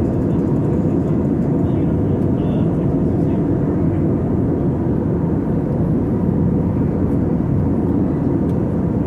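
Steady cabin roar of an Airbus A320 airliner in flight: engine and airflow noise as an even low rumble, with a faint steady tone running through it.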